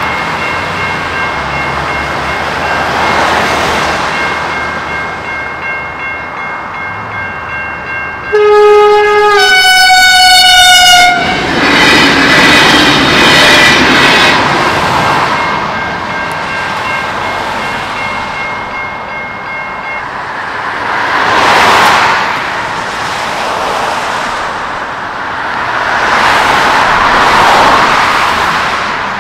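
Level crossing electronic bells (Safetran E-Bells) ringing steadily while a V/Line VLocity diesel railcar sounds its horn about eight seconds in, the horn dropping in pitch as the train passes, followed by the rumble and clatter of the train going over the crossing. The bells stop about twenty seconds in as the crossing deactivates, and two road vehicles then pass.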